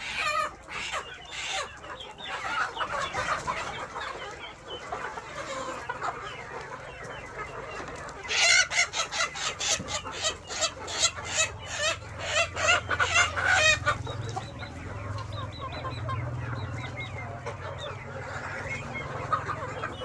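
A flock of KUB village chickens clucking and calling over one another, with a run of loud, rapid calls in the middle. A low steady hum joins in the second half.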